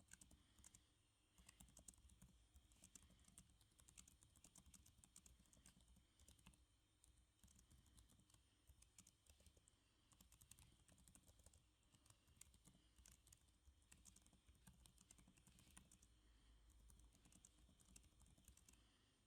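Faint, steady typing on a computer keyboard: a continuous run of soft key clicks.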